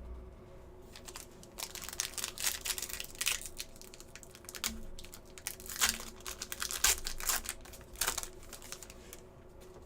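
Plastic-foil trading-card pack wrapper crinkling and crackling as it is handled and opened, in irregular clusters of sharp crackles from about a second and a half in until near the end.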